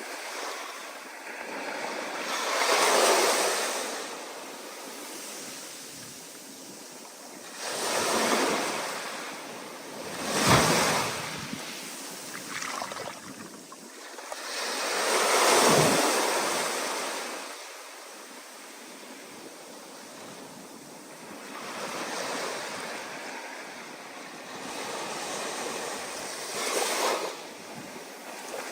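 Stormy ocean surf: waves breaking in loud, rushing surges every few seconds, each swelling and then washing away, over a constant hiss of water and wind.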